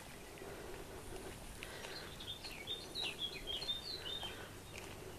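A small songbird twittering a quick run of high chirps from about two seconds in until past the middle, over faint footsteps and outdoor background hiss.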